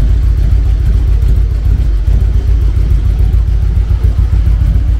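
Harley-Davidson Electra Glide Classic's carbureted V-twin engine idling steadily, a loud, deep, pulsing rumble.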